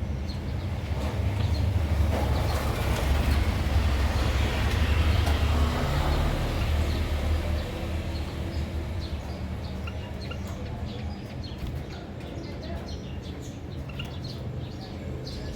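Short, high chirps from small cage birds scattered throughout, over a low rumble that swells over the first few seconds and then eases off.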